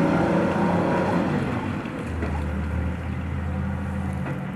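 An engine running with a steady hum; a lower, deeper hum comes in about two seconds in and stops shortly after four seconds.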